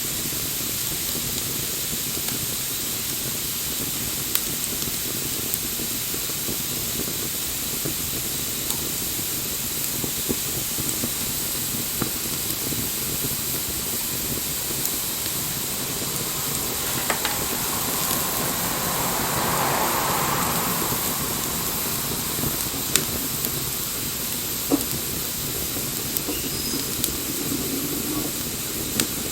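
Wood bonfire burning with a steady hiss and scattered crackles and pops; the hiss swells for a few seconds a little past the middle.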